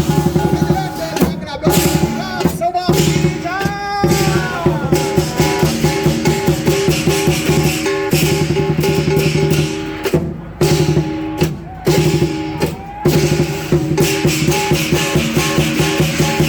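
Chinese lion dance drum and percussion playing a fast, driving rhythm of rapid strikes over a sustained ringing tone, with a few short breaks in the second half.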